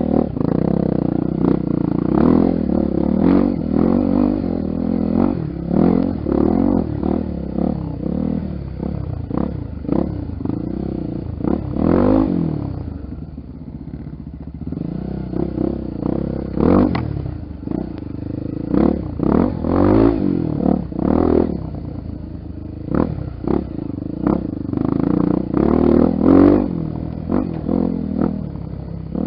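Honda XR Tornado trail motorcycle's single-cylinder four-stroke engine running, its revs rising and falling again and again as it is ridden over rough ground, with frequent knocks and rattles from the bike.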